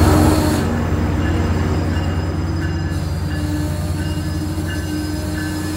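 MARC bilevel commuter train slowing to a stop at the platform. Loud rolling rumble drops off about half a second in and settles into a steady low hum, with brief high squeals from the wheels and brakes.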